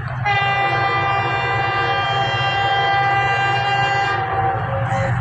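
GEU-40 diesel locomotive's air horn sounding one long steady blast. Its higher tones drop away about four seconds in and the horn cuts off near the end, over a steady low rumble.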